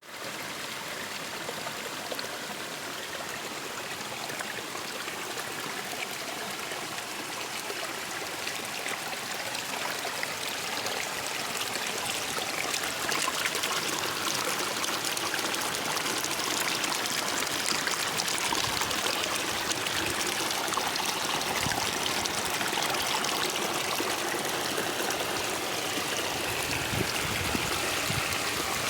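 Water flowing in a stream: a steady rushing and trickling that grows a little louder about halfway through.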